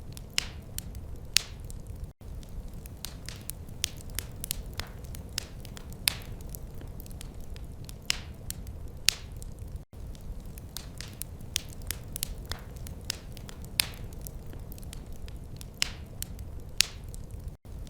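Wood fire crackling in a fireplace: irregular sharp pops and snaps over a steady low rumble. The sound cuts out for an instant three times, about every eight seconds.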